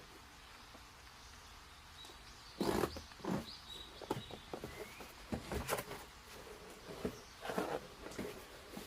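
A series of irregular knocks and rustles from something being handled, the loudest about two and a half seconds in. A bird chirps faintly in the background a few times.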